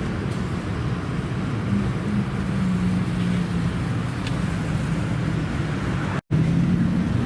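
Modified car's engine running at low, steady revs. The sound cuts off abruptly about six seconds in, and another car's engine takes over.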